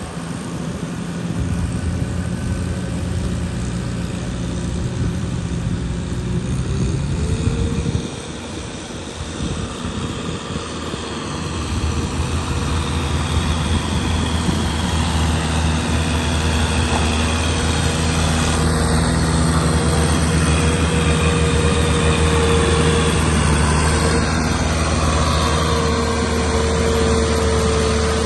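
Tractor engine running steadily, with a brief drop in level about eight seconds in, then running louder from about twelve seconds on.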